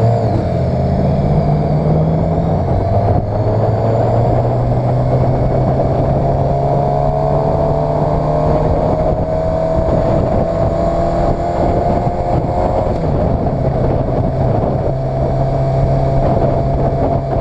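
Suzuki GSX-R 750 inline-four sportbike engine running under way, its pitch climbing slowly for several seconds and then holding steady, over rushing wind noise.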